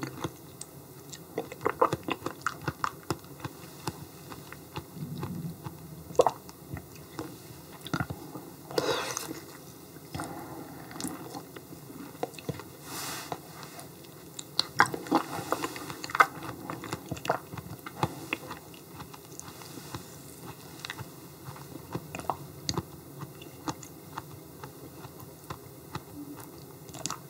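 Close-miked eating sounds of yellow stingray liver being chewed: wet mouth clicks and smacks at an irregular pace, with a few longer, louder swells.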